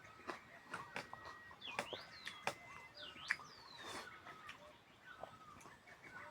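Birds chirping and calling in short notes that rise and fall in pitch, with scattered sharp clicks in between.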